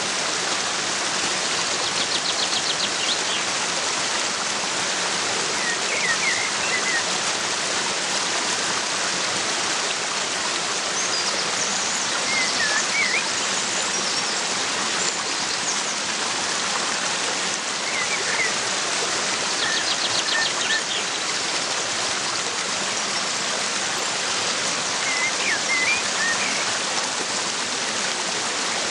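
Steady rush of a waterfall, with a few short bird chirps now and then and a couple of fast, high trills over it.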